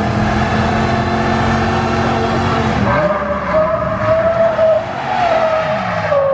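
A car doing a burnout: the engine is held at high revs while the tires squeal continuously. About three seconds in, the engine note shifts and a strong, steady squeal takes over.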